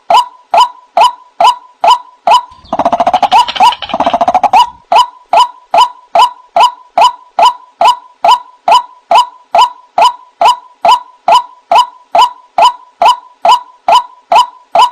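White-breasted waterhen (ruak-ruak) calling: a loud, even run of short "wak" notes, about two or three a second, broken about three seconds in by a faster, rougher burst of calls lasting some two seconds. It is a recorded lure call of the kind played to attract waterhens.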